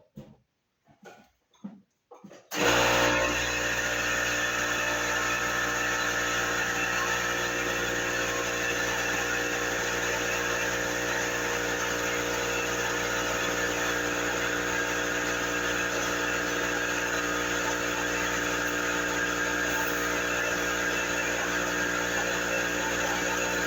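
A few faint knocks, then about two and a half seconds in a shop air compressor switches on with a sudden jump in level. It then runs steadily, its motor and pump making a constant drone with several steady tones.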